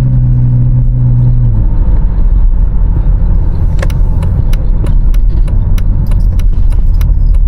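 BMW X3 3.0's N52 inline-six engine running on the test drive after the intake manifold repair: its note drops in pitch over the first second and a half as the revs fall, then settles into a steady low drone. Scattered sharp ticks and rattles come over the second half.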